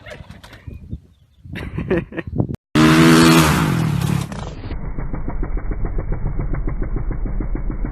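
Motocross bike engine revving loud after a sudden cut, then a dirt bike engine running on with a steady, rapid pulse that sounds duller.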